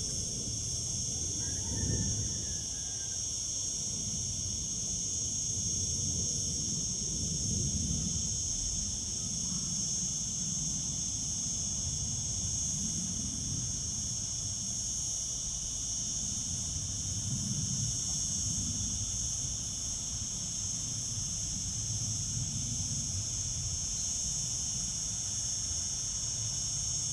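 Cicadas singing in one steady, unbroken high-pitched drone, with a low rumble underneath.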